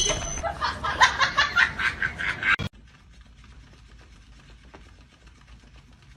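A person laughing in quick repeated bursts, which cut off abruptly between two and three seconds in, followed by faint room noise.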